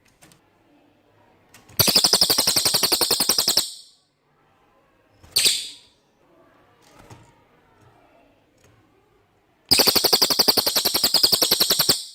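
A cililin songbird singing two loud, very rapid rattling trills of almost two seconds each, about eight seconds apart, with one short falling call between them. This is the clear cililin song used as master audio for training white-rumped shamas.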